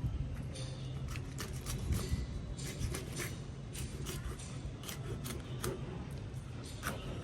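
Irregular short scraping and cutting strokes, a blade working on a fish, over a steady low hum.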